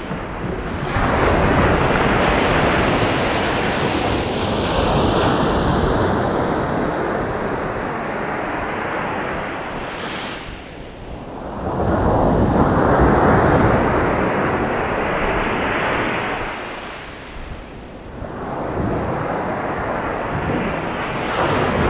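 Winter sea waves breaking and washing up a sandy beach. The rushing surf swells and ebbs in long surges, easing off about 11 seconds in and again near 18 seconds before the next wave builds.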